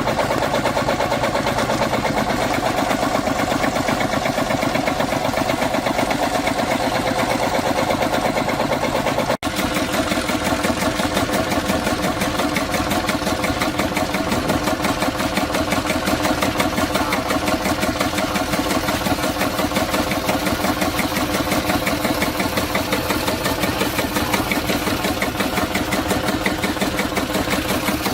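Vintage tractor engine running steadily with a fast, even firing beat. About nine seconds in the sound breaks off for an instant and resumes with a slightly different note.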